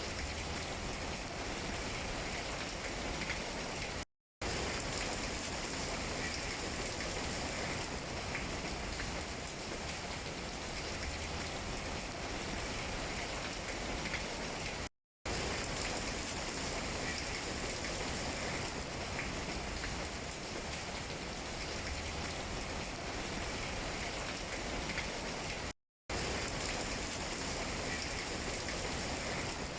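Steady rain falling on tree leaves: an even hiss with scattered small drop taps. It cuts to silence for a split second three times, about every eleven seconds.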